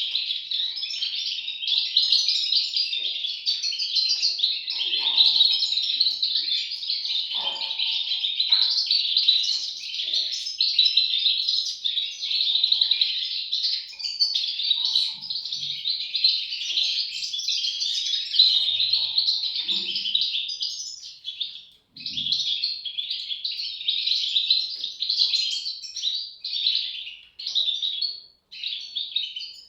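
European goldfinch chicks chirping: a dense, continuous high-pitched chatter of many overlapping calls, broken by a couple of brief gaps near the end.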